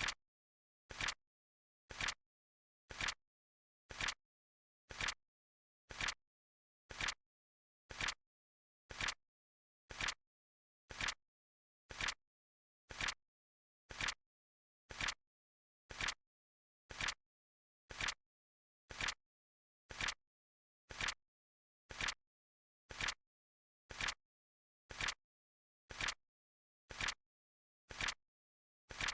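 Flip clock's card-flip sound effect clicking once a second, a short sharp click each time with silence in between.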